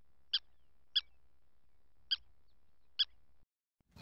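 Meerkat giving short, high chirps, four of them about a second apart.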